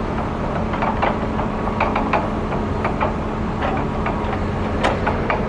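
Wet piece of fat pine (rich lighter) burning, giving scattered sharp crackles and pops, over the steady hum of an idling engine.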